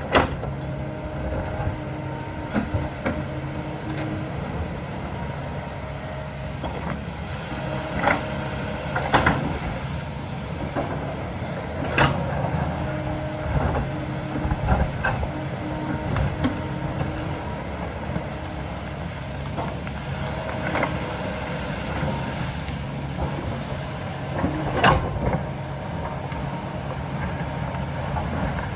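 Diesel engine of a heavy earthmoving machine running steadily, with a tone that comes and goes over the engine note and several sharp clanks spread through.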